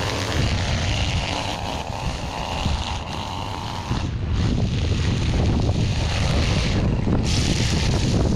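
Small engine of a string trimmer running steadily while cutting weeds, louder from about halfway through.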